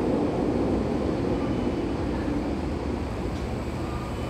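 Low rumble of a SkyTrain in the station tunnel, fading away steadily.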